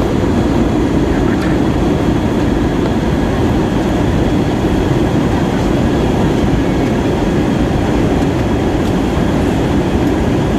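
Steady, loud rumble inside the passenger cabin of an Airbus A320-232 in flight: the even mix of airflow and engine noise heard from a window seat near the front.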